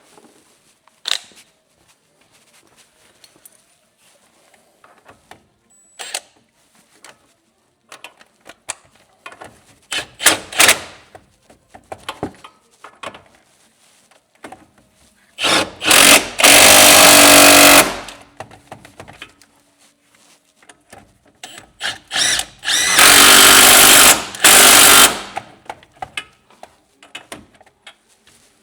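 A handheld power tool runs in two bursts of about two and a half seconds each, the first about halfway through and the second about seven seconds later, while a BC Racing coilover is being reassembled. Short knocks and clicks of metal parts and tools being handled come between the bursts.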